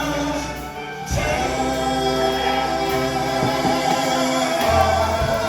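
Gospel music: a choir singing long held notes over a bass line, swelling into a new chord about a second in.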